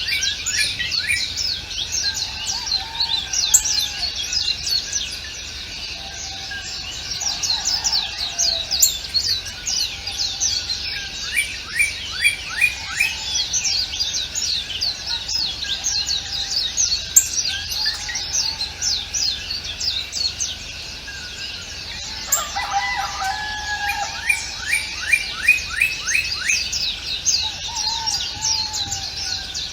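Chorus of many songbirds chirping over one another, with dense, quick, high, falling chirps that come now and then in fast repeated runs, and lower warbled calls in between.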